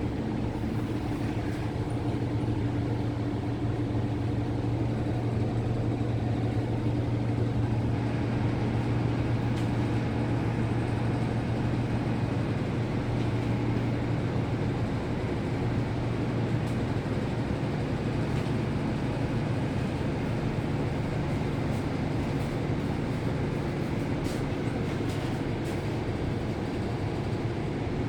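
Daewoo NEW BS106 city bus's Doosan GL11P natural-gas engine running, heard from inside the bus as a steady low drone. Its note shifts up a little about halfway through.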